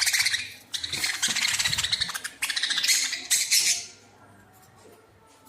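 Budgerigars chattering and squawking, a dense, fast, high-pitched chatter in bursts that drops away about four seconds in.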